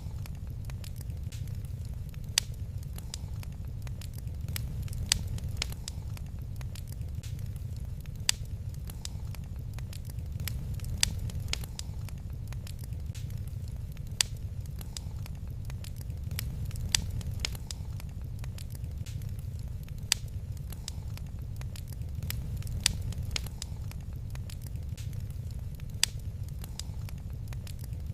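Wood fire crackling in a fireplace, with sharp pops and a louder snap about every three seconds over a steady low rumble.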